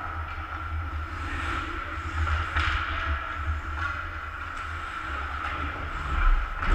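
Ice hockey rink ambience: a steady hum and low rumble, with a few faint knocks and a louder low thump near the end.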